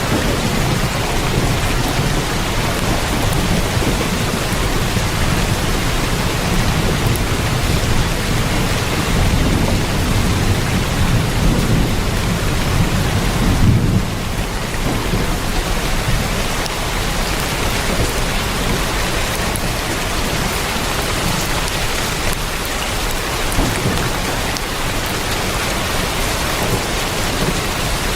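Heavy rain drumming steadily on a tin roof, with a deeper low rumble underneath that drops away abruptly about halfway through.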